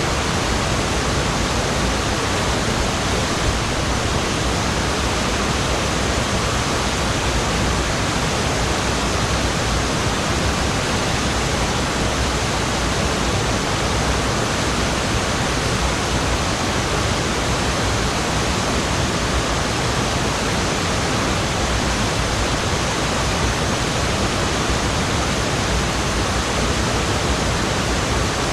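Fudō Falls, a waterfall, rushing steadily: an even, unbroken noise of falling water with no change in level.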